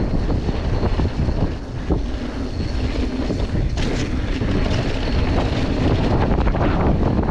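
Wind rushing over a mountain biker's camera microphone along with the rumble and rattle of a mountain bike rolling fast over a dirt trail, with a sharper clatter about four seconds in.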